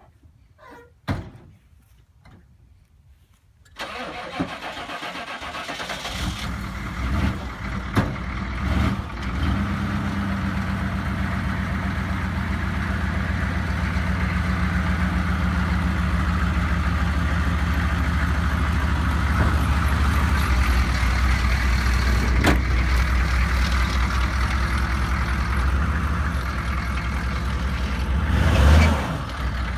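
A few knocks, then about four seconds in the Chevrolet 3500 HD pickup's engine starts and settles into a steady idle. It swells louder briefly near the end.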